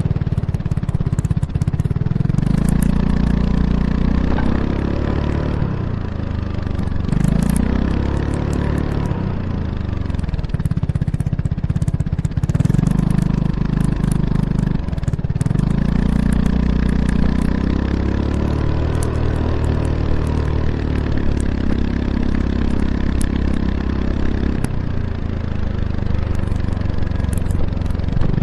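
Kymco X-Town scooter's single-cylinder engine through an Arrow Urban exhaust with its dB killer installed, heard close at the exhaust while riding. The engine note rises and falls again and again as the rider accelerates and eases off.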